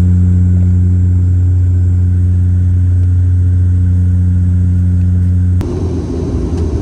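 Turboprop propeller drone of a Dash 8 airliner heard from inside the cabin: a steady low hum with evenly spaced overtones. About five and a half seconds in it cuts abruptly to a rougher, noisier rumble.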